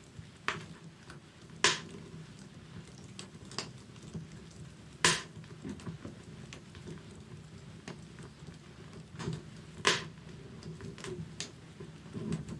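Wood fire crackling in a fireplace: irregular sharp pops and snaps, the loudest at about one and a half, five and ten seconds in, over a steady low background.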